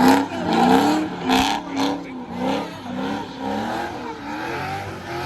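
Car engine being revved up and down repeatedly, its pitch rising and falling about every half second.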